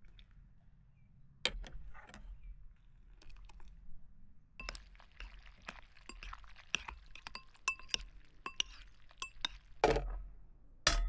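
Kitchen utensils and dishes clinking: a few scattered clicks, then a quick run of rapid metallic clinks from about halfway in, with a louder knock near the end.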